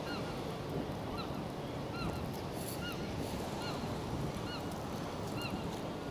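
Short honking calls, like birds, repeating about twice a second over a steady rush of wind noise.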